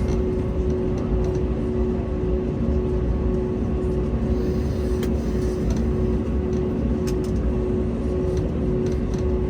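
Steady cabin hum inside an Airbus A321neo: a low rumble with two steady droning tones, and a few faint scattered clicks.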